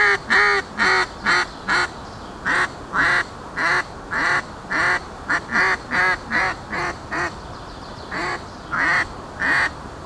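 Handmade S3P duck call blown in a long series of quacks about half a second apart, coming quicker and softer in the middle, then after a short pause three final quacks.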